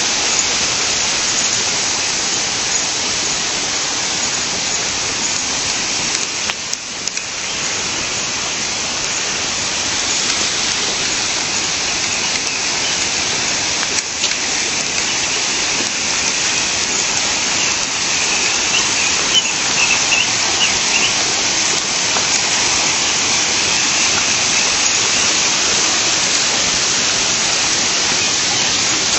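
Steady rush of a flowing stream. A few faint bird chirps come through about two-thirds of the way in.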